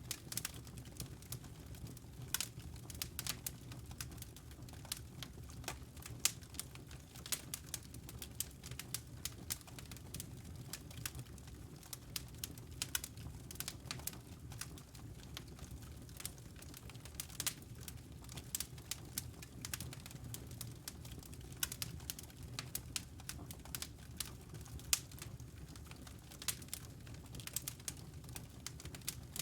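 Wood fire crackling in a fireplace: dense, irregular snaps and pops over a low, steady rumble of the flames.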